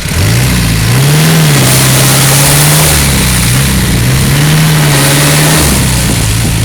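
Turbo diesel engine of a Daihatsu Rocky four-wheel drive bogged in mud, revved up and down repeatedly as it tries to drive out. The revs rise about half a second in and again about three seconds in, holding between, with a steady high hiss over the engine.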